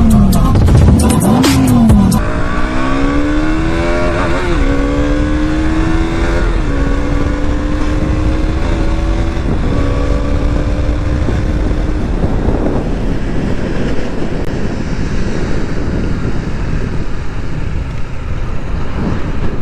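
Intro music cuts off about two seconds in. A KTM motorcycle engine then accelerates, its note climbing and dropping back at each of three or four upshifts. After about twelve seconds it settles into a steady cruise buried under wind noise on the microphone.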